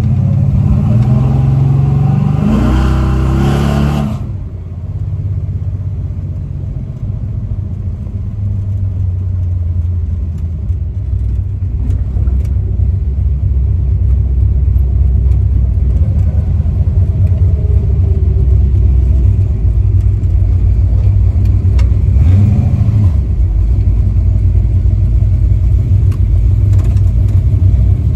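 Chevy V8 crate engine in a Chevy LUV pickup pulling hard with revs climbing, then easing off about four seconds in to a steady low rumble at cruise. The revs rise briefly again about 22 seconds in and near the end.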